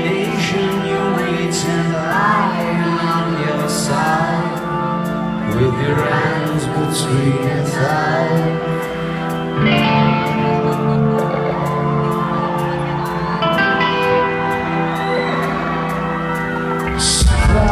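A rock band playing live in a large hall: sustained keyboard chords and a steady ticking beat under a male lead vocal, with the crowd singing along. The bass and drums come in much louder near the end.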